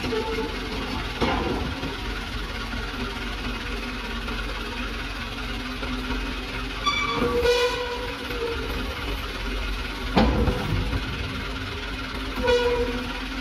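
Hino Dutro 130 HD dump truck's diesel engine running steadily, with a few sharp knocks and clanks from the truck, the loudest about ten seconds in. A short high-pitched squeal comes about seven seconds in.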